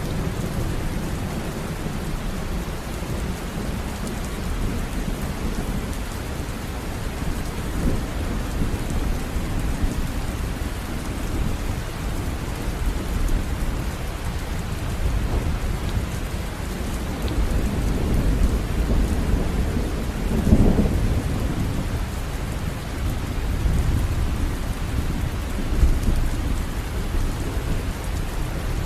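River water running, a continuous rushing with a deep low rumble that swells briefly about two-thirds of the way through.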